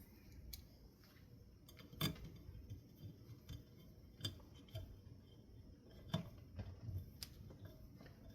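Scattered light clicks and taps of small hard ceiling-fan parts being handled and fitted during reassembly, with sharper knocks about two seconds in and about six seconds in.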